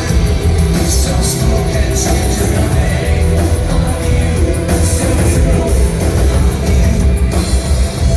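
Loud live industrial rock from the stage, with heavy bass, drums and a voice singing, recorded from the audience.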